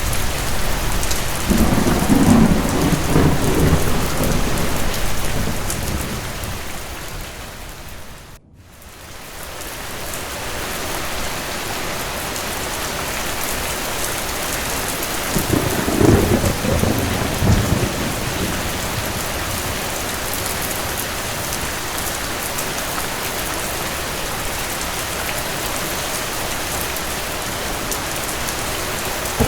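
Steady rain with two rolls of distant thunder: one in the first few seconds, and a shorter one a little past the middle. About eight seconds in, the whole sound briefly fades almost to nothing and then swells back.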